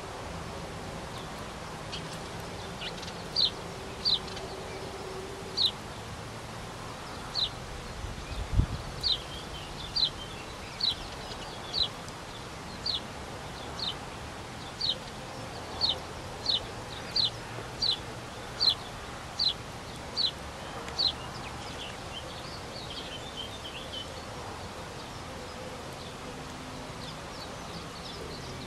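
A bird giving short, high, falling call notes over and over, roughly one a second, then fainter ones near the end, over steady outdoor background noise. One low thud about eight and a half seconds in.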